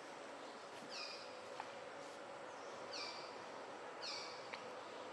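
Short, high calls from an animal, each falling in pitch, about four times over steady outdoor background hiss.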